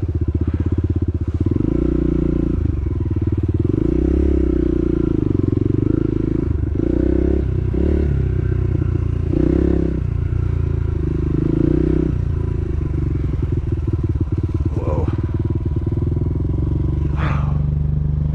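Dirt bike engine running under the rider, its revs rising and falling repeatedly with the throttle while riding a sandy trail.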